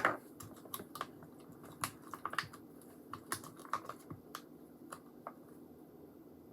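Slime being mixed with a mixing stick in a cup as more activator goes in: a string of small, irregular clicks and taps, with a sharper knock right at the start.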